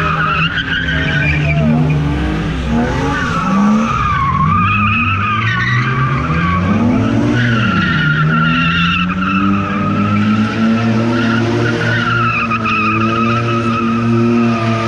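A car doing a burnout: the tires squeal without a break, their pitch wavering, while the engine revs rise and fall underneath.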